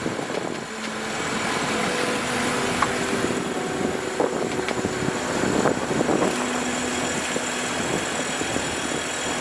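Steady rushing noise of wind and water on a sailing yacht under way at sea.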